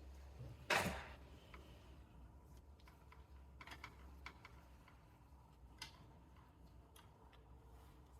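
A short knock about a second in, then a few faint, scattered clicks and taps over a low hum: handling noise from working on a badminton racquet and stringing tools.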